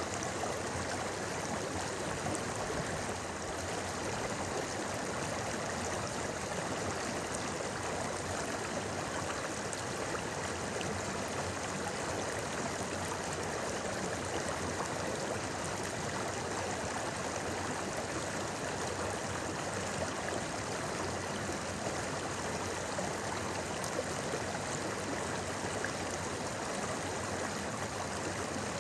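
Shallow river burbling steadily over stones, an even rushing with fine gurgles and splashes.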